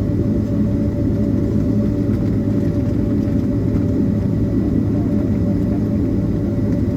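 Steady low rumble of a Boeing 767-300ER's jet engines at low power, heard inside the cabin, with a steady whine running through it.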